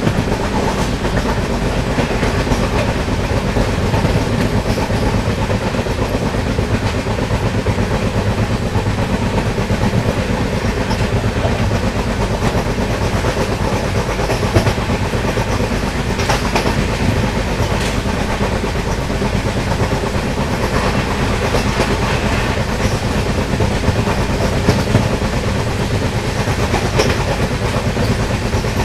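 A passenger train of LHB coaches running along the track, heard on board: a steady rumble of wheels on the rails with occasional clicks.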